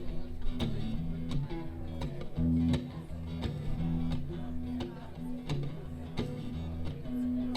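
Live band playing an instrumental passage led by guitar, with bass notes and a steady beat.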